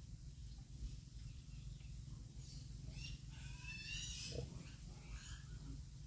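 A bird chirping, a quick series of high calls from about two to five seconds in, over a low steady rumble.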